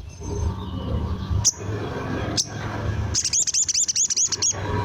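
Sogon (ruby-cheeked sunbird) calling: two sharp, very high single notes about a second apart, then a quick run of repeated looping high notes, about six a second, that stops suddenly. A steady low hum sits underneath.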